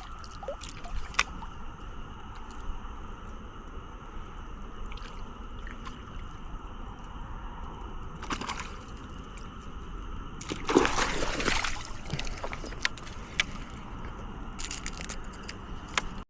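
Water splashing and sloshing at the surface: a short splash about eight seconds in and a louder, longer one about two seconds later, with a few small clicks over a steady background hiss.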